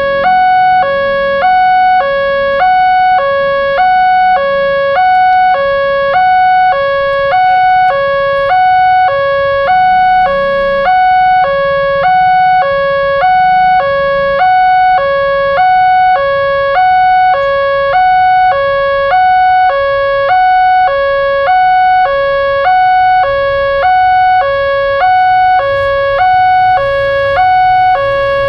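Railroad level-crossing warning alarm sounding continuously: an electronic two-tone signal that alternates evenly between a lower and a higher tone, about once a second each, warning that a train is approaching. A low rumble lies beneath it.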